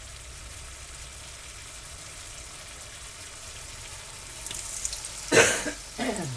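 Tortilla frying in a pan with a steady, soft sizzle. About five seconds in, a person coughs loudly, twice.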